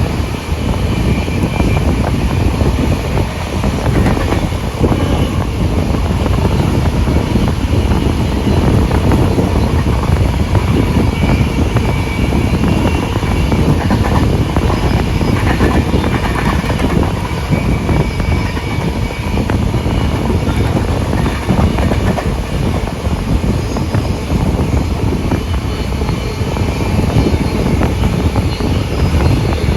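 Steam-hauled passenger train running at speed, heard from on board: a loud, steady rumble of the carriage wheels on the rails.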